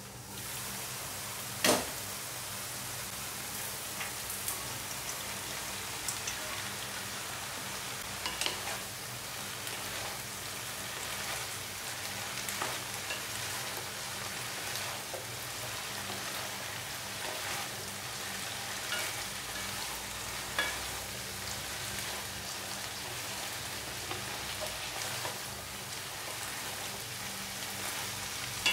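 Ground beef and sliced bitter gourd sizzling in a wok while being stirred and tossed with a wooden spatula. There is a sharp knock about two seconds in, and light clacks of the spatula against the pan here and there.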